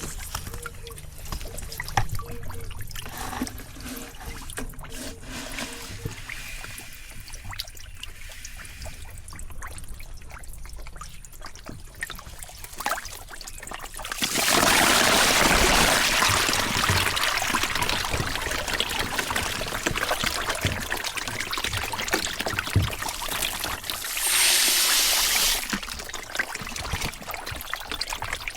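Water splashing and pouring in a catfish pond. It is fairly quiet with scattered splashes at first, then turns suddenly loud about halfway through and stays loud for around ten seconds, with another short loud burst near the end.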